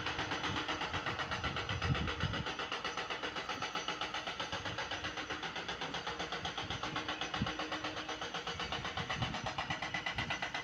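Ashok Leyland tipper truck's diesel engine running, with an even pulsing of about four to five beats a second.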